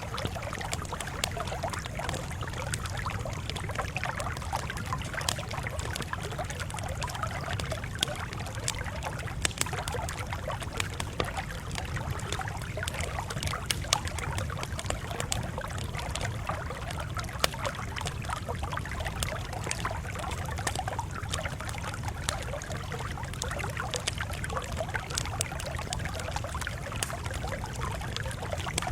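Campfire burning with frequent sharp crackles and pops over a steady low rumble.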